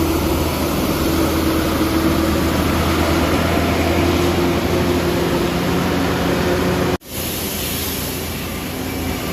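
Steady noise of heavy rain together with vehicle engines running, with a low hum underneath. The sound cuts out abruptly about seven seconds in and comes back slightly quieter.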